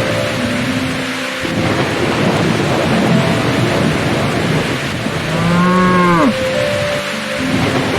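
A cow moos once, a call of about a second that falls in pitch at its end, roughly five seconds in. Steady rain runs underneath, with thunder.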